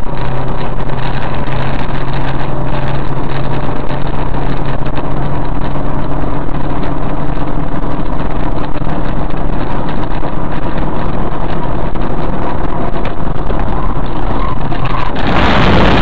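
A vehicle engine running loudly at a steady pitch, cutting abruptly to a different, harsher noise about fifteen seconds in.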